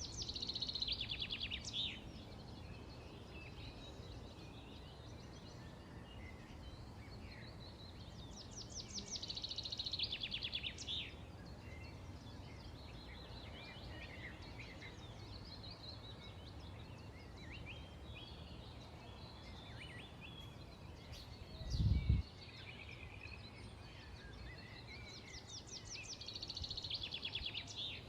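Songbirds singing: one bird repeats a rapid, descending trill about two seconds long three times, roughly every eight to nine seconds, while other birds chirp in between. A steady low rumble sits underneath, and a brief low thump comes about three quarters of the way through.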